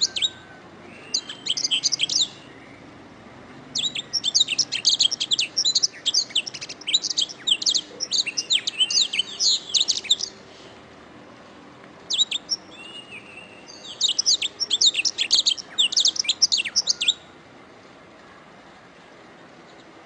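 Domestic canary singing fast runs of trills and chirps in several phrases with short pauses between them. The song stops about three seconds before the end, leaving a faint steady hiss.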